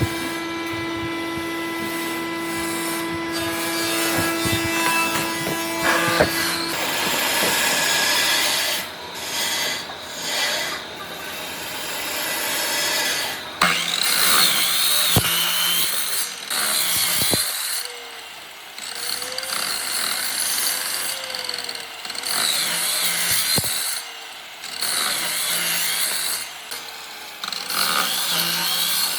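Electric power tool working wood. For the first few seconds its motor runs with a steady whine. Later it comes back in repeated passes, its pitch dipping each time it bites into the wood, with rasping friction.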